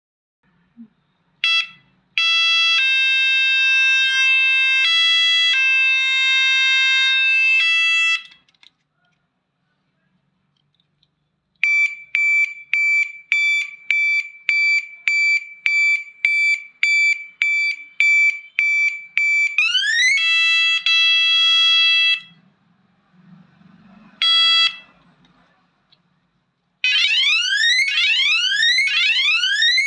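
Electronic bicycle horn cycling through its tones: a steady multi-note beep held for several seconds, then a run of evenly spaced beeps about two a second, a rising glide into a held tone and a short beep, and near the end a fast repeating siren wail.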